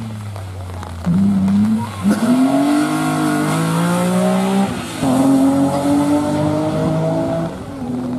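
Rally car engine accelerating hard through the gears, its pitch climbing in steps with short breaks at each upshift, about two, five and seven and a half seconds in.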